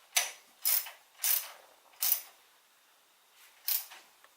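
Five short, sharp metallic clacks from tools being handled, four about half a second apart and one more after a pause.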